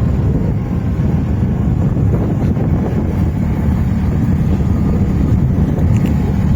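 Wind buffeting the microphone, heard as a loud, steady low rumble.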